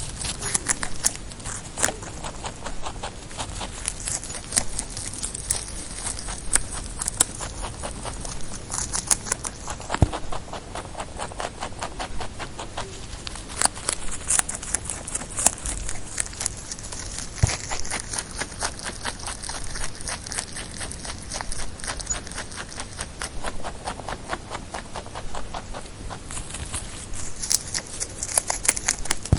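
Rabbit making rapid, irregular clicking sounds, several a second.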